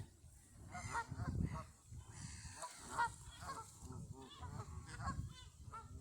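Geese honking, a run of many short calls one after another, with a low rumble beneath.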